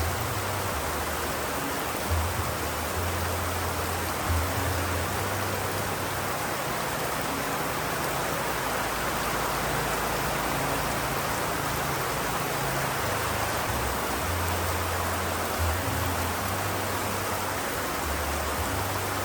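Steady rain, an even hiss of falling water. Low deep tones sit underneath it and change every few seconds.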